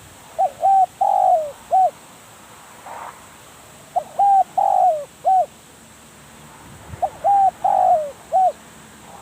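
Spotted dove cooing: three phrases of about four short notes each, repeated roughly every three seconds.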